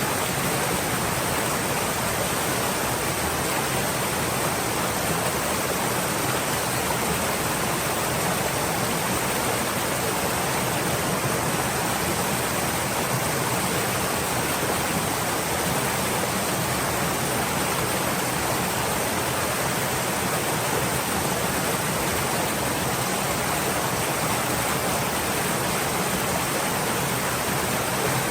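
A stream flowing: a steady, even rush of water that does not change.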